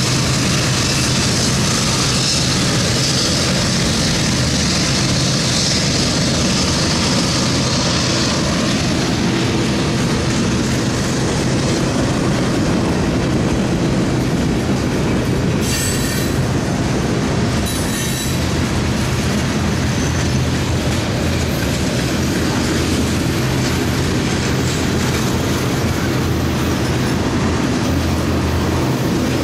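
Freight train cars rolling past on steel wheels: a steady heavy rumble with clickety-clack over the rail joints. A high wheel squeal rides on top through the first several seconds, and two short harsh bursts stand out about sixteen and eighteen seconds in.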